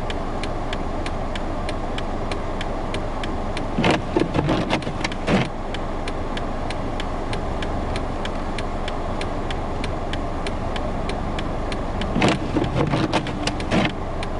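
Steady car and blizzard-wind noise from a car stuck in snow, with a fast, even ticking throughout. Two short, louder surges about four and twelve seconds in.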